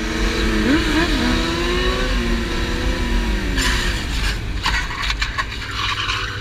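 Kawasaki ZX-10 sport bike's inline-four engine revving, with quick rises in pitch about a second in, then easing off and falling in pitch. Harsh bursts of noise follow in the second half.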